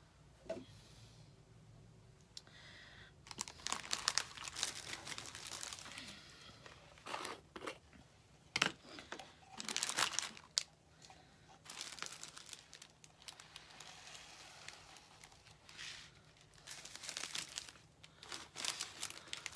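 Crinkling and rustling of craft materials and packaging being handled, in irregular bursts that start a few seconds in, with an occasional sharp tap.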